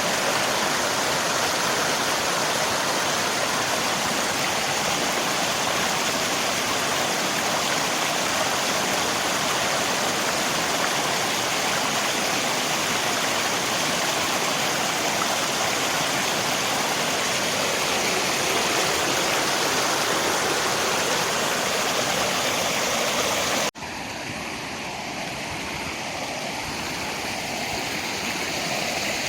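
Steady rushing of river water mixed with rain. About 24 seconds in it cuts off abruptly and comes straight back quieter and duller, then slowly grows louder again, as at a splice into another take of the recording.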